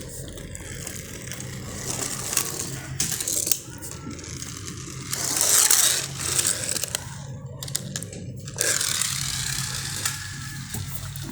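Plastic toy vehicles being handled: irregular rustling, scraping and small clicks, loudest about five to six seconds in.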